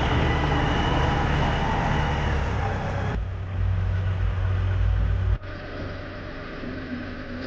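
A vehicle engine running with road or driving noise, in a few edited clips that cut abruptly. A heavier low rumble in the middle clip gives way to a quieter, steadier running sound after about five seconds.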